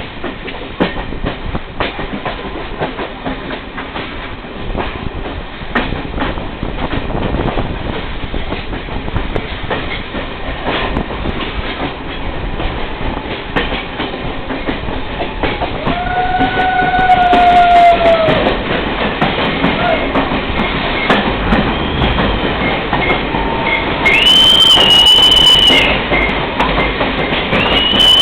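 Passenger train running, with a steady rumble and the wheels clicking over rail joints. About two-thirds of the way in there is a held tone lasting a couple of seconds, then two shorter high-pitched squeals near the end.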